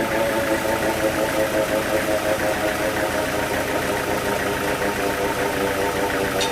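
A sawmill's engine running steadily, with an even hum and no cutting load.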